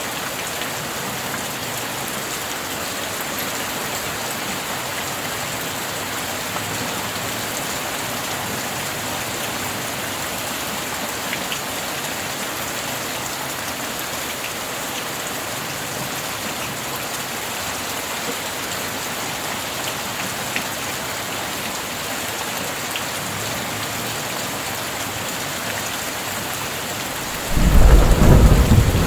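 Steady rain falling, an even hiss. Near the end a loud clap of thunder breaks in with a deep rumble.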